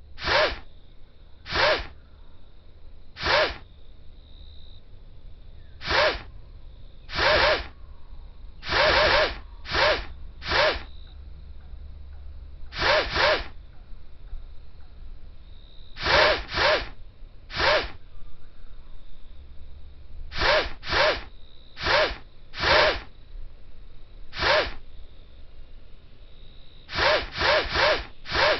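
Short scratchy rubbing sound effects from a cat game, about twenty in all, each under a second, coming at irregular intervals and sometimes in quick runs of two to four.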